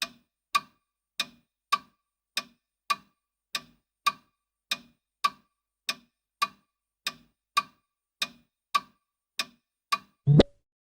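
A clock ticking steadily, with about one and a half to two ticks a second, then one louder, deeper knock near the end.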